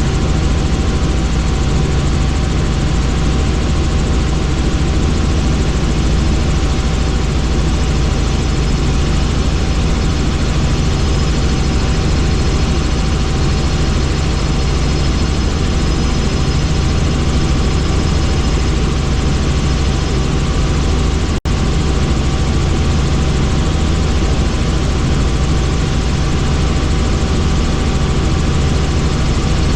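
Helicopter in flight: a steady, loud drone of rotor and engine with a constant whine over it. It cuts out for an instant about two-thirds of the way through.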